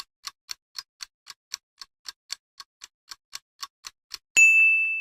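Countdown timer sound effect ticking evenly about four times a second, then a single bell-like ding near the end that rings on and fades, signalling that the guessing time is up.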